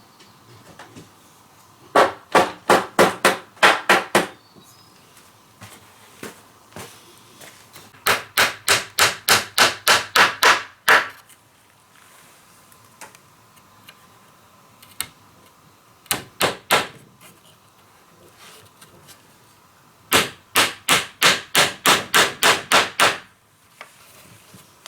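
Hammer blows on wood in four quick runs of strikes, about four or five a second, with pauses between the runs.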